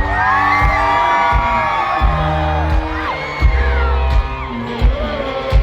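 Live rock band playing loud through a concert PA: a slow, heavy drum beat about every 0.7 s over sustained low bass notes, with a crowd whooping and cheering over it.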